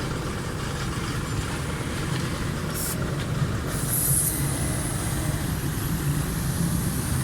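Steady low rumble of road traffic, with two short hisses, about three and four seconds in.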